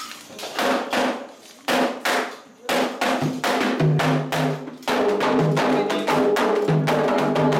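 Candomblé atabaque hand drums playing a toque. The strikes come loosely at first and settle into a steady, fast beat about three seconds in.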